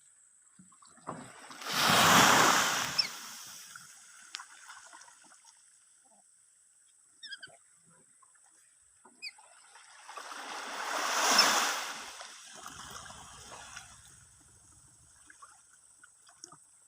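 Sea waves breaking and washing up the shore, two surges about two seconds in and again about ten seconds in, the second peaking near eleven seconds. A few faint, short chirps from a lory come in between, only sparse, halting calls.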